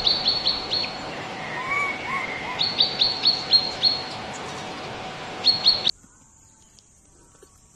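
A bird calling in runs of short, high notes, each falling in pitch, about four or five a second, over a steady background hum. The sound cuts off abruptly about six seconds in, leaving only faint clicks.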